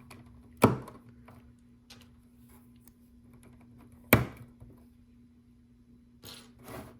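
Two sharp knocks about three and a half seconds apart, then a few softer clicks and knocks near the end, from LEGO pieces and hands striking the building surface.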